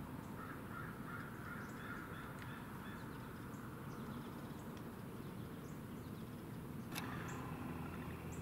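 Faint bird calls, repeated over the first three seconds, then a single sharp click about seven seconds in.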